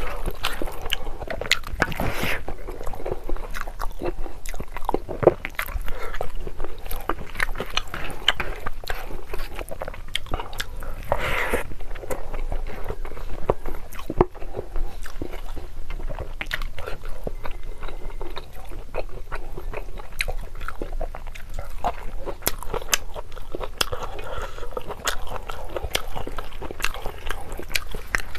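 Close-miked chewing of a mouthful of rice and mutton curry, with wet mouth clicks and smacks coming irregularly.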